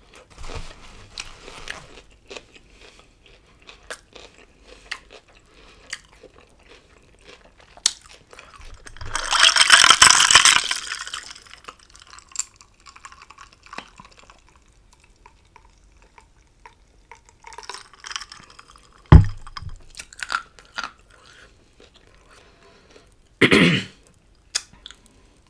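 Close-miked eating sounds: a person chewing and biting into a chicken gyro wrapped in a soft flour tortilla, with small wet mouth clicks throughout. A louder rushing noise lasts about two seconds around ten seconds in, a sharp knock comes a little past the middle, and a short loud burst comes near the end as she bites into the wrap again.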